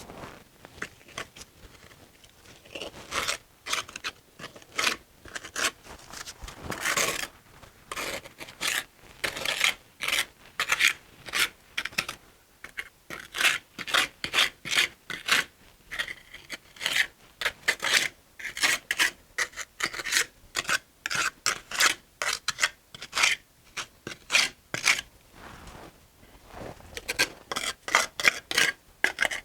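Masonry trowel scraping mortar against brick in a run of short strokes, about two a second, with one longer scrape about seven seconds in.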